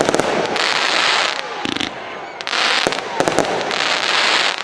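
Nico 'Wahnsinn' 36-shot fan cake firing: sharp launch shots alternating with rushes of noise about a second long.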